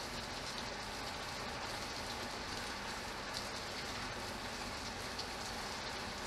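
Steady rain falling, with a few single drops striking a little louder here and there.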